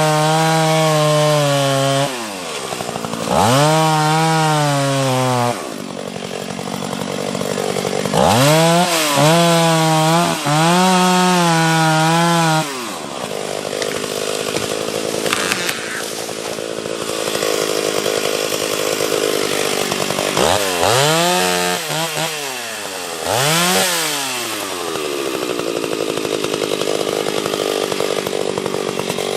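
Two-stroke chainsaw cutting wood. It revs up to a high, steady pitch, then drops lower and rougher as it loads into the cut, and revs back up again several times.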